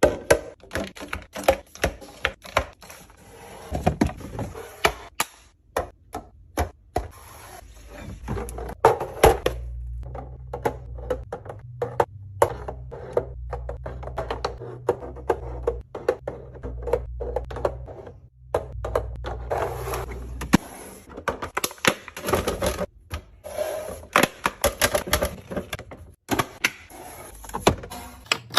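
Items being handled and set into a fridge during restocking: a long run of quick clicks, taps and knocks from containers and packages. A low rumble runs under the clicks from about a third of the way in to about two-thirds of the way through.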